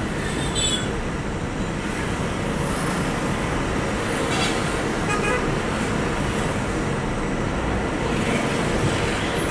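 Truck travelling on the road: steady engine and road noise with no break.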